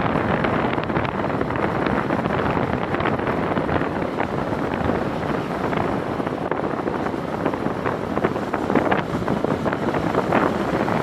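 Steady rushing wind noise buffeting the microphone, thick with many small crackles.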